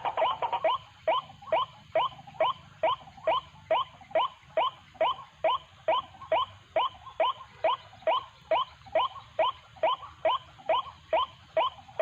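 White-breasted waterhen calling: a monotonous series of short, sharp 'kwak' notes, about three a second, the decoy call used to lure wild waterhens.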